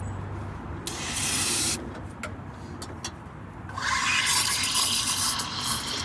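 Espresso machine steam wand hissing: a short burst of steam about a second in, then a longer rough hiss from nearly four seconds in as milk is steamed, with a couple of light clicks in between.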